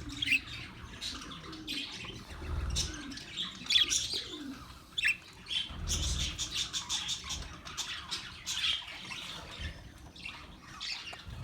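Budgerigars chirping and chattering, with short high calls throughout and a quick run of rapid chirps about six seconds in. A few low dull thumps come through underneath.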